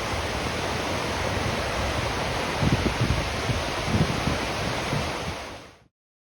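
Ocean surf breaking and washing onto the beach as a steady rush, with low buffeting of wind on the microphone in the middle. The sound fades out quickly near the end into silence.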